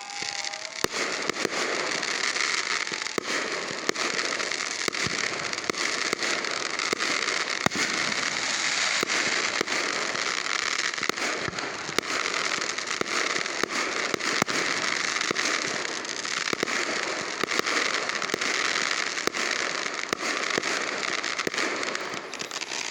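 Fireworks crackling: a dense, unbroken rapid popping that starts about a second in and keeps up.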